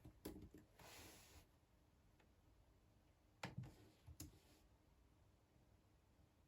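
Sparse computer keyboard key clicks in a quiet room: a few just after the start, then a brief soft rustle about a second in, and a couple more clicks around three and a half and four seconds in.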